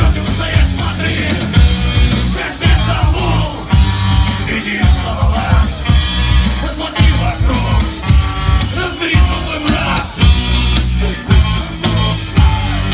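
Rock band playing live and loud, with a heavy, even drum beat and sung vocals.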